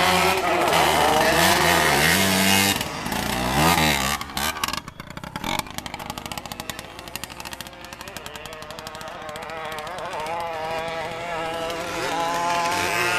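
Small 50cc two-stroke motocross bikes revving up and down as they pass close. The engine sound fades away about five seconds in, then builds again as bikes come back toward the end.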